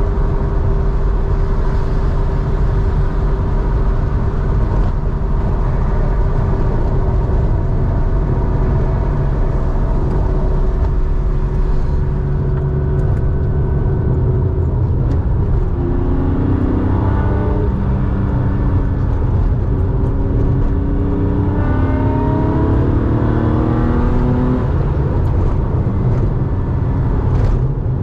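1987 Porsche 911's air-cooled 3.4-litre flat-six running through a two-in-one-out muffler while driving. It holds a steady drone, then the engine pitch rises in two runs of acceleration in the second half.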